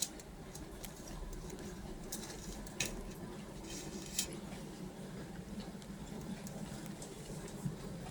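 A few sharp, scattered clicks and clinks of tableware during a meal, over a low steady hum.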